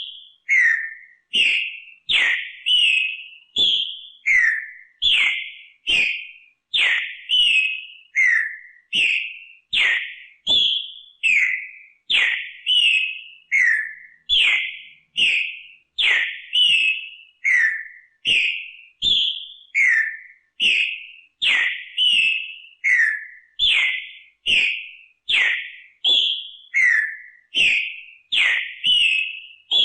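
Green-winged saltator (trinca-ferro) singing its song phrase over and over: loud, clear whistled notes, many sliding downward, about three every two seconds without a break.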